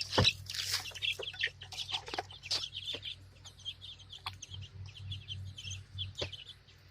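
Young chickens peeping: many short, high cheeps repeating quickly and steadily, with a couple of sharp knocks.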